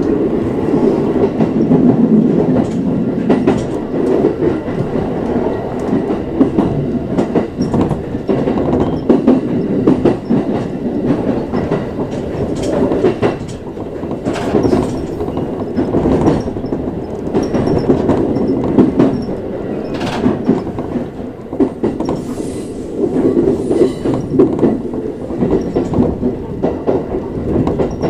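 Local commuter train running inside the carriage as it comes into its terminus platform. A steady rumble with repeated clatter of wheels over rail joints and points, and some squeal from the wheels.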